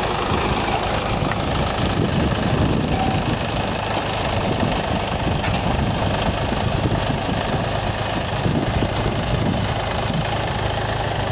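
Dong Feng 304 tractor's diesel engine running steadily with a low, even rumble.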